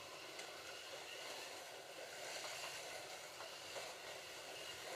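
Slot.it slot cars running laps on a plastic track: a faint, steady hiss and whine from the small electric motors and the pickups on the rails, with a few small clicks.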